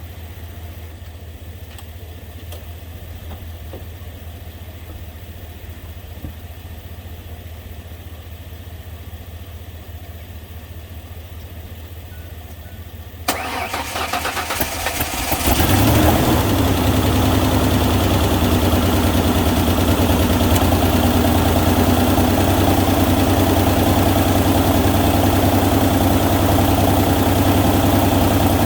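Ford Ranger engine cranked by its starter for about two seconds, then catching and settling into a steady idle, now firing after its firing order was corrected; the owner says it sounds like it has an exhaust leak. Before the start, only a low steady hum.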